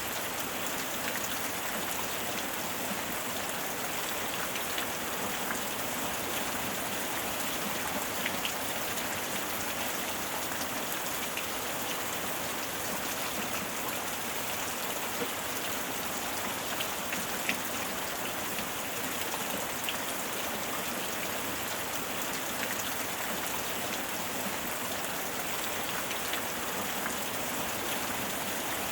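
Steady heavy rain falling, with a dense even hiss and scattered individual drop ticks.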